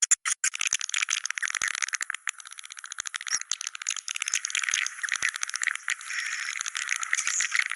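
Swiftlet calls: a dense, rapid chatter of high chirps and clicks, the 'Goa China' call recording used as a swiftlet-house sound.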